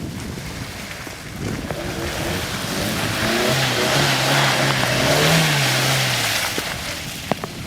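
Hyundai Tucson's engine revving up and held under load as the tyres churn through mud, a rushing hiss that swells to its loudest about five seconds in and then dies away with the engine. A single sharp click near the end.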